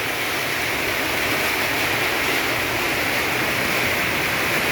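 Heavy tropical downpour: hard rain falling in a steady, even hiss.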